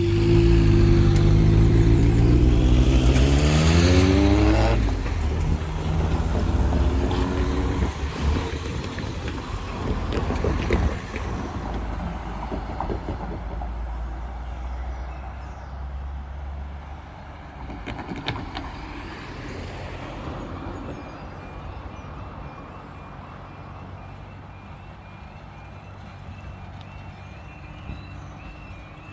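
Road vehicles driving over the level crossing, the first accelerating through the gears. About twenty seconds in, the crossing's quiet alarm starts a faint repeating tone as the barrier lowering sequence begins.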